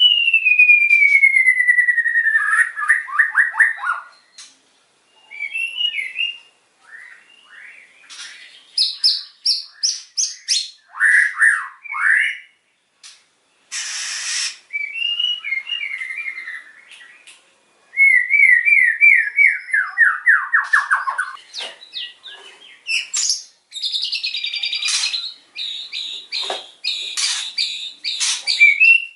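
White-rumped shama singing a varied, vigorous song: a long falling whistle at the start, then quick runs of sharp repeated notes and trills broken by short pauses, with a long descending trill about two-thirds of the way in and dense loud phrases near the end.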